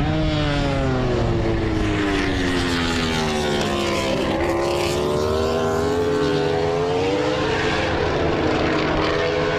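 Suzuki's inline-four MotoGP prototype racing engine at speed. The engine note falls steadily for about four seconds as the bike slows, climbs again as it accelerates, and drops once more near the end.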